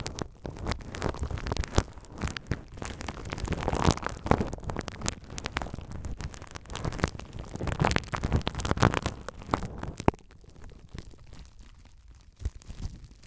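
Bubble wrap crinkled and squeezed close to the microphone: dense crackling with sharp clicks and snaps, thinning out and quieter for the last few seconds.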